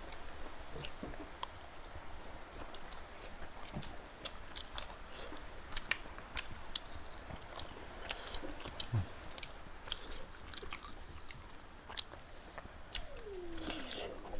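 Close-miked eating of a pork curry and rice meal: chewing and biting, with many short, irregular wet clicks and crunches of the mouth.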